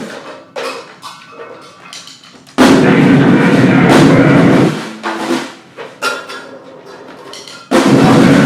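Noise-grind band playing in stop-start blasts of harsh noise and drums: a loud burst of about two seconds a third of the way in, short hits and ragged gaps around it, and another blast starting near the end.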